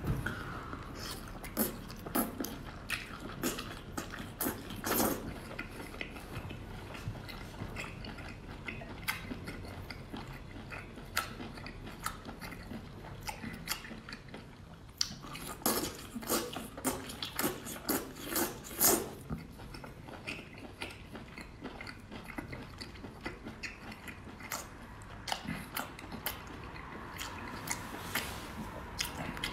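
Close-miked chewing of spicy skewered baby octopus: many short, irregular wet mouth clicks and smacks, thickest a little past halfway.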